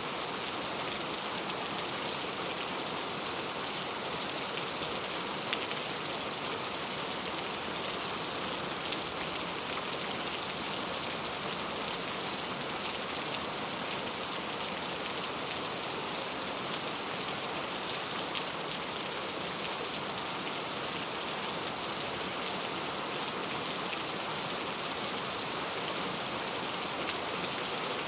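Heavy rain falling steadily, a dense even hiss of drops on surfaces with faint individual drop ticks.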